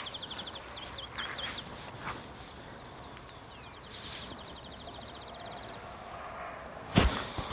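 Songbirds singing. It opens with a run of quick repeated high notes, then a fast even trill comes in about four seconds in, with higher twittering over it just after. A single sharp thump near the end is the loudest sound.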